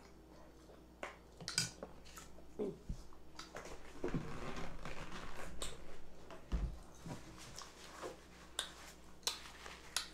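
Close-up eating sounds: chewing mashed potatoes with wet mouth clicks and smacks, with a few light knocks of a plastic fork against a foam cup and a low thump about six and a half seconds in.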